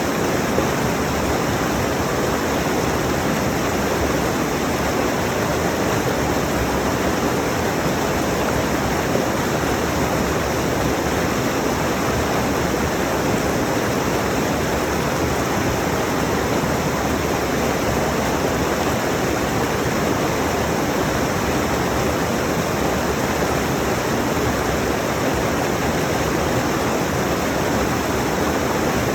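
Rushing mountain stream: a steady, even roar of fast water over rocks, with no change through the stretch.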